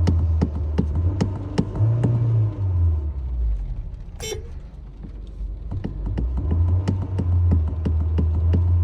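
Honda HR-V engine being revved: the low engine note climbs about two seconds in, falls back, and rises again to hold high in the second half. A brief horn toot sounds a little past four seconds, and a rapid, regular clicking runs alongside.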